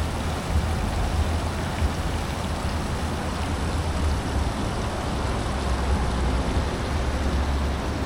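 Steady rushing noise like wind and water, with a low rumble of wind on the microphone that swells and drops.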